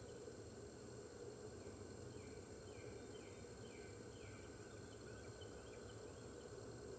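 Faint outdoor webcam background of steady hum and hiss, with a bird's series of faint short falling chirps, about two a second, from about a second and a half in until near the end. No wolf howling is heard yet.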